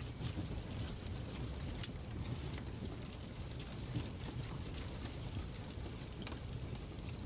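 Fireplace ambience: a steady low rumble of burning fire with scattered, irregular sharp crackles.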